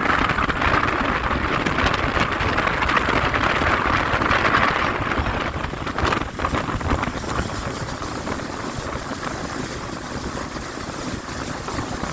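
Speedboat running at speed across the water, engine and hull rush mixed with heavy wind buffeting on the microphone. The noise eases a little about seven seconds in.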